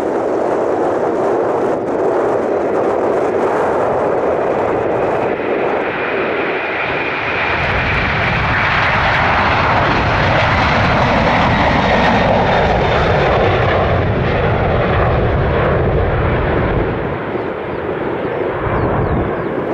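Airbus A330-300 airliner's jet engines at takeoff power as it climbs out past; about a third of the way in a deep rumble builds, with a tone that falls in pitch as the aircraft goes by, then the sound eases near the end.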